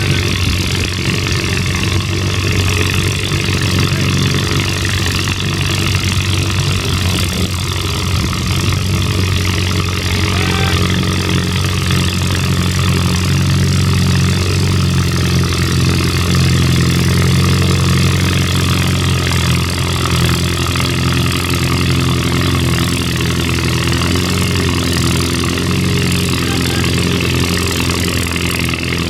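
Antique farm tractor engine running steadily, an even low drone with little change in speed.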